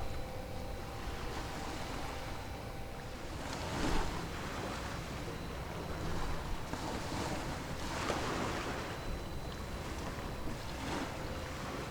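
Sea waves washing in, swelling up in surges about 4 seconds in, again around 7 to 8 seconds, and near the end, with wind on the microphone.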